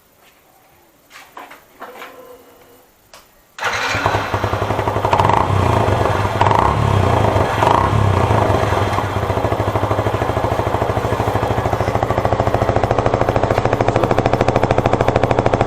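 Yamaha FZS V3.0's single-cylinder engine starting about three and a half seconds in, after a few faint clicks. It is blipped a few times, then settles to an even, pulsing idle through a silencer modified with extra washers, a note the rider likens to a KTM Duke.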